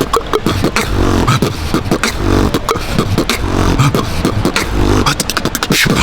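Beatboxed hip-hop beat: a deep bass pulse and a short pitched note repeating about once a second, with fast clicking snares and hi-hats in between.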